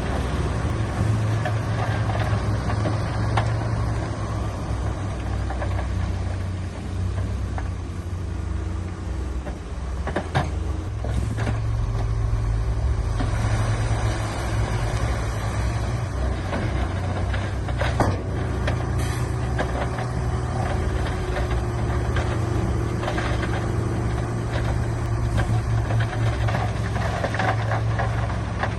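Diesel engine of heavy earthmoving machinery running steadily at work, with a few sharp knocks, the clearest about ten seconds in and about eighteen seconds in.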